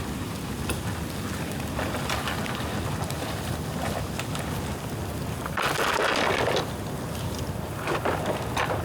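Dry bamboo bonfire burning with a steady low rumble and scattered small crackles, and a louder rushing hiss lasting about a second around six seconds in.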